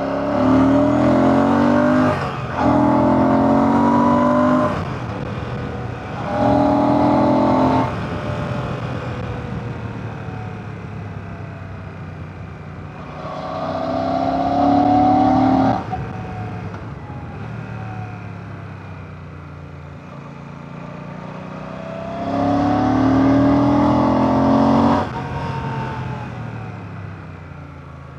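Royal Enfield Classic 650's 648cc air/oil-cooled parallel-twin engine on the move, pulling hard with rising pitch in three bursts broken by short dips for gear changes in the first several seconds. It then rolls off with falling pitch and opens up twice more before easing off near the end.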